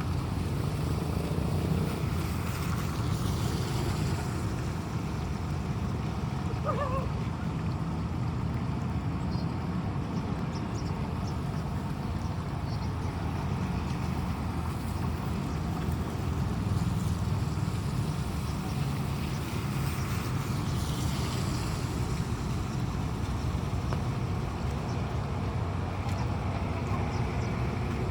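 Steady low rushing noise of a rainstorm and running floodwater, unbroken and even throughout.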